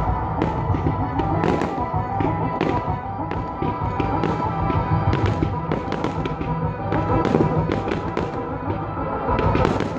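Aerial fireworks bursting and crackling in a rapid, irregular series of bangs, over music with a steady beat.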